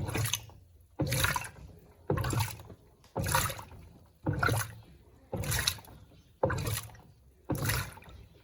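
Electrolux Turbo Compacta 7 kg top-loading washing machine agitating its load: water sloshing in surges about once a second, each starting sharply and fading away.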